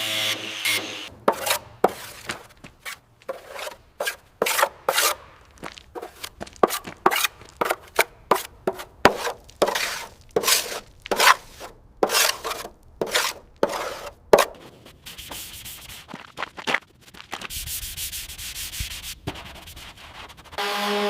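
Hand sanding: short, irregular abrasive strokes, about one to two a second, giving way to a steadier rasping stretch about three-quarters of the way through.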